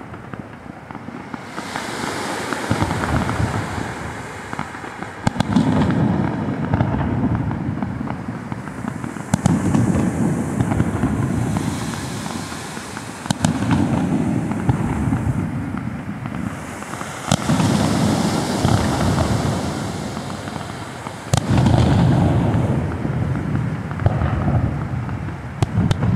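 Aerial fireworks shells bursting, about six heavy booms roughly four seconds apart, each trailing off in a rolling rumble, with crackling and fizzing from the bursts in between.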